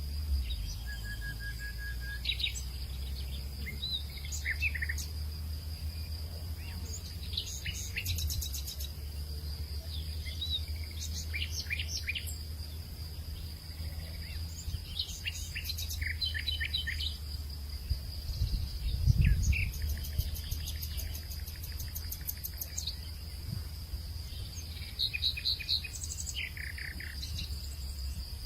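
Outdoor natural ambience of several birds singing short chirps and trills scattered throughout, over a steady high insect drone and a low wind rumble. A louder low gust of wind comes about two-thirds of the way through.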